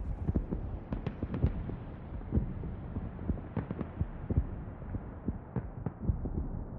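Irregular sharp pops and thuds, several a second at uneven spacing, over a steady low rumble.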